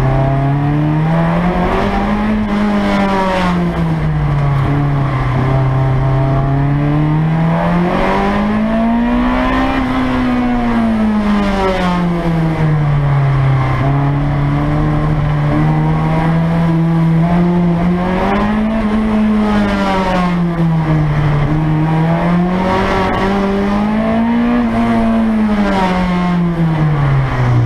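Mini race car with a swapped-in Honda B16 VTEC four-cylinder engine, heard from inside the cabin, running hard under load. It revs up and eases off four times, holds a steady pitch in between, and drops toward idle right at the end.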